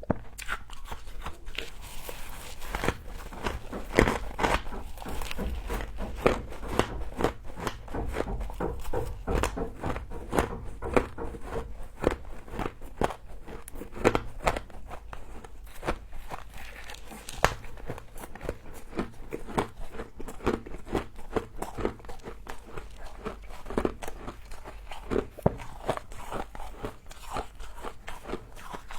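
Close-miked biting and chewing of frozen frost (freezer frost sold as 'humidifier frost'): many sharp, irregular crunches in quick succession.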